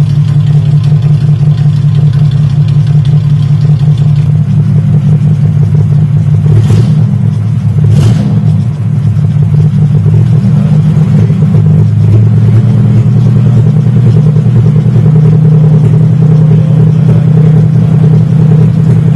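Exhaust of a 1978 Toyota Crown's 4M straight-six running steadily through a 4-2-2 header and twin exhaust pipes, a loud even low drone. Two short whooshing sweeps come about two thirds of the way in.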